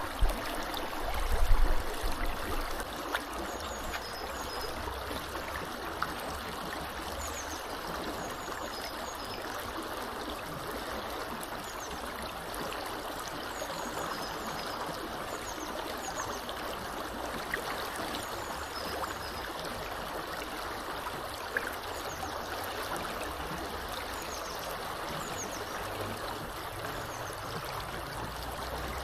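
Small river flowing steadily, a continuous rushing and trickling of water, with faint, short, high bird chirps scattered through it. A brief low rumble about a second and a half in is the loudest moment.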